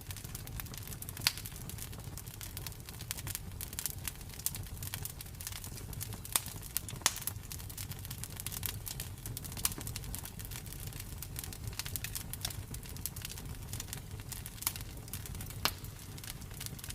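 Campfire burning, with steady crackling and sharper pops scattered throughout over a low rumble of the flames.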